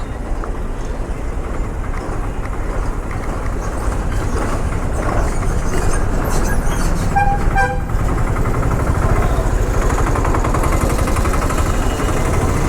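Motorcycle riding noise: a steady engine rumble mixed with wind and road noise, growing a little louder partway through. A short vehicle horn toot sounds about seven seconds in.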